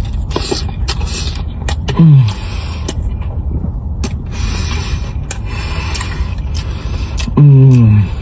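Close-miked chewing of crispy fried egg rolls, with sharp crunches and clicks over a steady low rumble. Two loud, brief tones glide down in pitch, one about two seconds in and one near the end.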